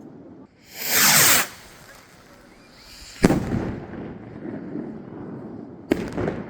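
Fireworks being set off: a loud whoosh sweeping down in pitch about a second in, a sharp bang with a lingering echo about three seconds in, and another bang with crackling near the end.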